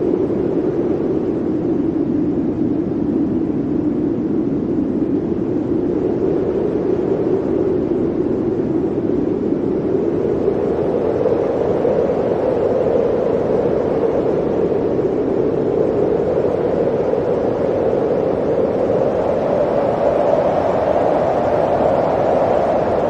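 Blizzard wind blowing steadily, a loud rushing noise with a hollow, howling band that slowly rises in pitch over the second half.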